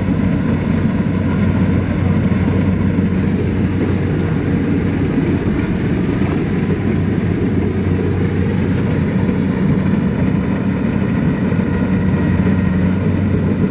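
Diesel engine of a farm machine running steadily, a low, even drone that holds the same pitch throughout.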